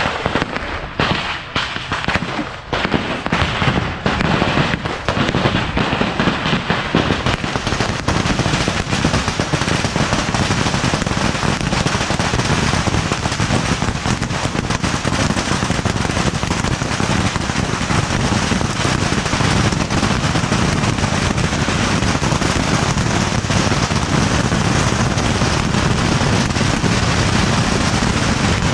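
Beehive rocket barrage: bottle rockets and firecrackers going off, separate bangs at first, merging after a few seconds into a continuous dense crackle that holds steady.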